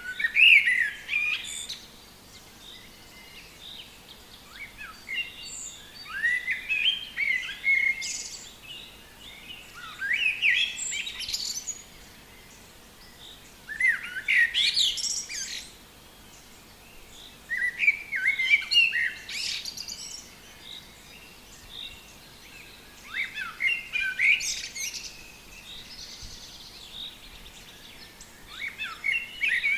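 A songbird singing in the forest: short, quick phrases of chirps and trills, repeated about every four to five seconds.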